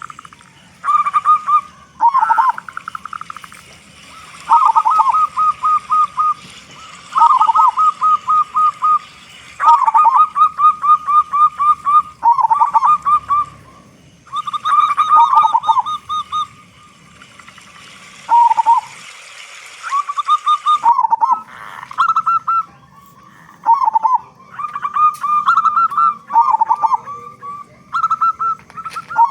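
Zebra dove (perkutut) singing a series of fast, evenly spaced coos at one pitch, phrase after phrase with short pauses between, some phrases ending in a lower dipping note.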